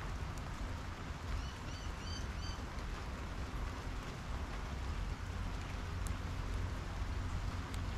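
Steady rain falling on a backyard, with drops pattering on a wet slatted table over a low steady rumble. About a second and a half in, a bird gives four short chirps.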